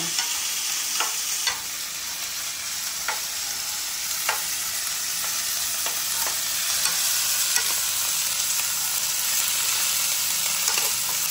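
Pork pekasam (fermented pork) frying in hot lard in a wok, a steady sizzle, with a few sharp clicks of the spatula against the wok as it is stirred, mostly in the first half.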